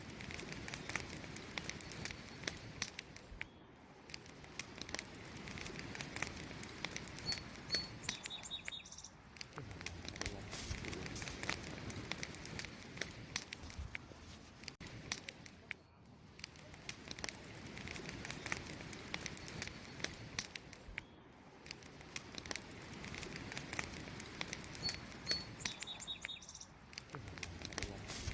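Wood campfire crackling, with many sharp pops and snaps over a soft steady hiss. A few short high bird chirps come about a third of the way in and again near the end.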